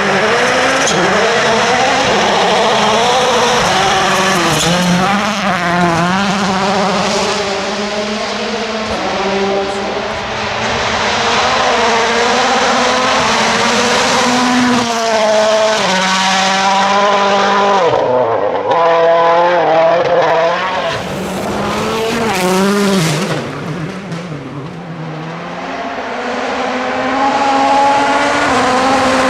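World Rally Car turbocharged engines revving hard, the pitch climbing and dropping again and again through gear changes as the cars accelerate, brake and pass, with tyre noise on the stage surface.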